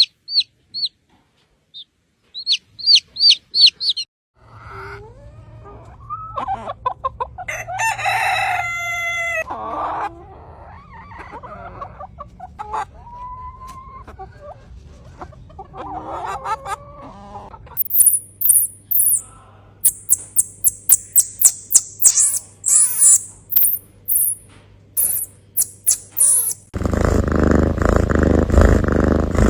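Chickens calling: a rooster crowing and clucking, in several short clips. Short high chirps come first, a run of rapid very high chirps follows later, and a steady noise sets in near the end.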